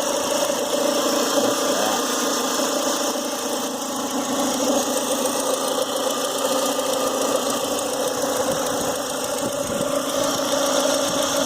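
Renault Clio Sport 172's 2.0-litre four-cylinder engine running steadily with a knocking noise, which the owner thinks is likely a worn bearing, or else a failed lifter.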